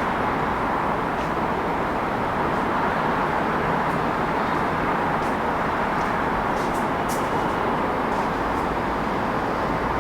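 Steady city traffic noise: an even wash of road vehicles with no single car standing out, and a few faint high ticks about two-thirds of the way through.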